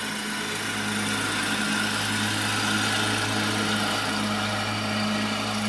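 A car's engine idling steadily, heard from inside the cabin: an even low hum with a steady hiss over it.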